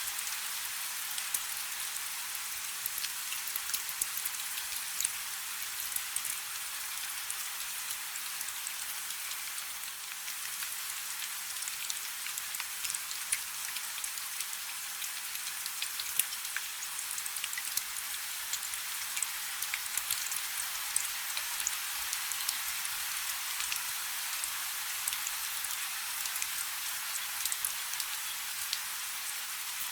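Light rain falling steadily: an even hiss dotted with many small, separate drop ticks.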